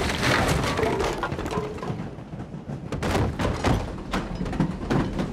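Fight sound effects: a run of thuds and knocks from blows and bodies hitting hard surfaces, several strong impacts close together.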